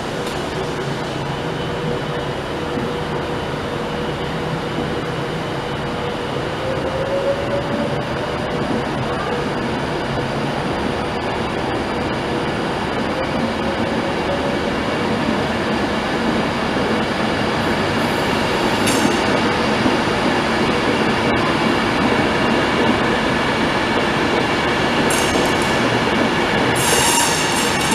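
A train running along the track: a steady noise of wheels on rail that grows a little louder, with a run of quick clicks near the end.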